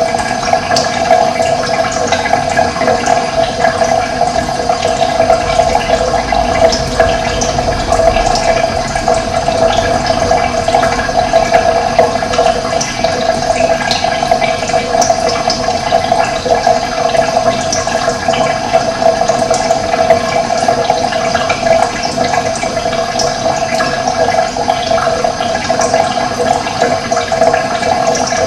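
Running water flowing steadily, a continuous rushing sound with no break.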